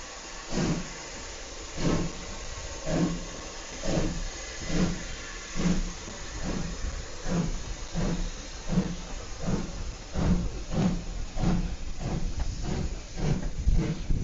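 Steam locomotive pulling away from a standstill: its exhaust chuffs start about a second apart and quicken steadily to about two a second, with steam hissing between them.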